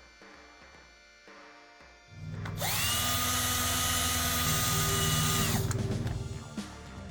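An electric power tool whirs up about two seconds in, holds a steady high whine for about three seconds, then winds down.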